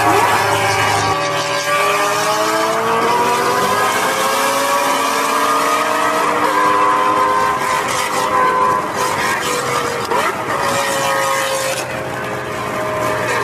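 A motor vehicle's engine running hard at high revs, its pitch drifting slowly up and down.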